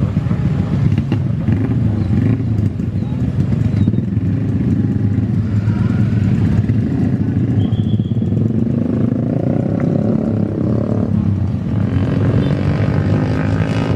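A steady, loud engine rumble, with a pitch that rises for a couple of seconds about two-thirds of the way through.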